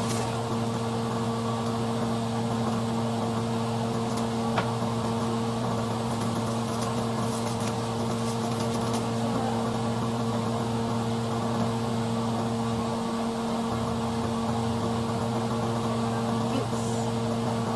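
Steady electrical hum from a small motor or appliance running, over a faint even hiss.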